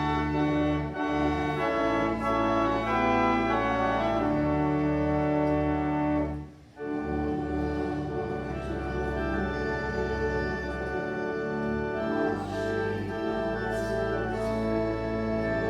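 Church organ playing a hymn: sustained chords over deep held bass notes, with a short break about six and a half seconds in before the music resumes.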